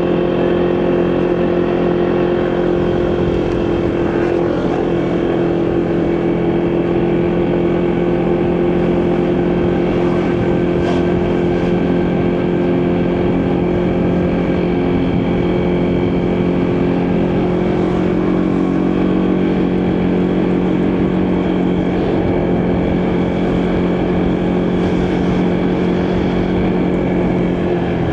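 Motorcycle engine running at a steady cruising speed, its pitch holding even, with wind and road noise from the ride.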